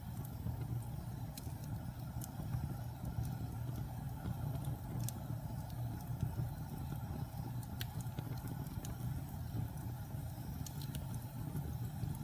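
Wood fire burning in a fireplace: a steady low roar of the flames with scattered sharp crackles and pops from the logs.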